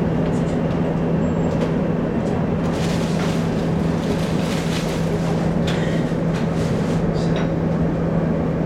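Running sound of a Taiwan Railways local express train heard inside the carriage: a steady rumble of the wheels on the track over a constant low hum, with a few brief clicks and rattles in the middle.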